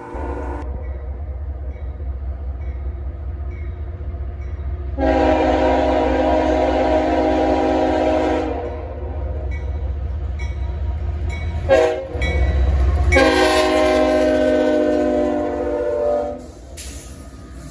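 A passing train's locomotive sounding its multi-tone air horn: a long blast about five seconds in, a short blip near twelve seconds, then another long blast, over the steady low rumble of the train.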